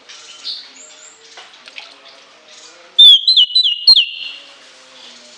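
Orange-headed thrush singing: soft twittering, then about three seconds in a loud, shrill phrase of about four quick whistled notes stepping in pitch, the high 'lengkingan' call prized in this bird.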